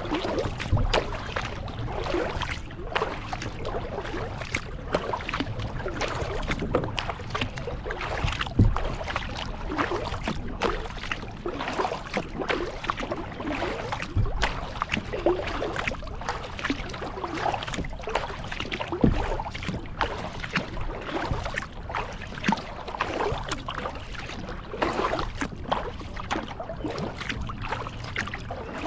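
Kayak paddle strokes: the blades dipping into and pulling through lake water, with splashing and dripping. There are a couple of louder thumps, about nine and nineteen seconds in.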